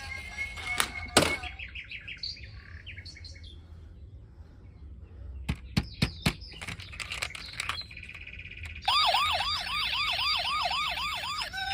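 Clicks and quick electronic chirps from battery-powered toy cars, then, from about nine seconds in, a toy police car's electronic siren warbling rapidly, about four to five rises a second.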